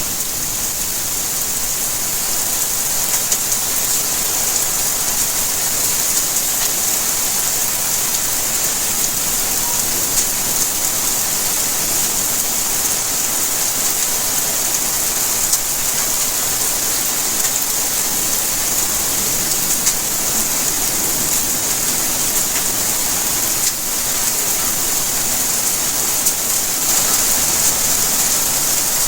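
Steady rainfall, a continuous even hiss of rain with fine scattered drop ticks.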